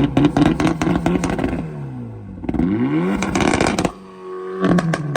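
Car engine held on a two-step launch limiter, its exhaust firing rapid pops and crackles at steady revs. Partway through the revs drop away and are brought back up to the limiter, and the popping starts again.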